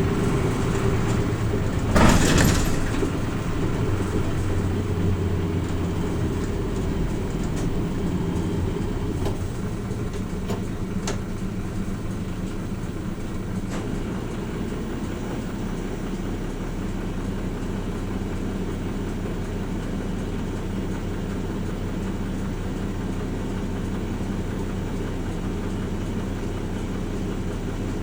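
Hino Rainbow RJ P-RJ172BA city bus's diesel engine running, heard inside the passenger cabin, with a brief loud burst of noise about two seconds in. The sound drops in level around ten seconds in and then holds steady.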